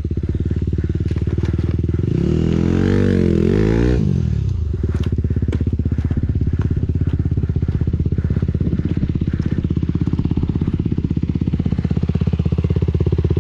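Motocross bike engine running steadily, its revs rising and falling about two to four seconds in.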